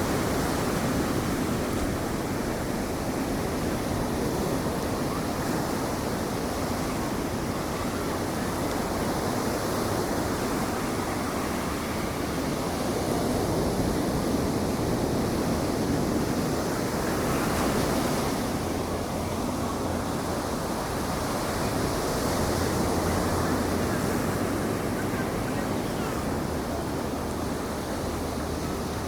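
Ocean surf breaking on the beach, a steady wash of waves that swells and eases every few seconds, with some wind on the microphone.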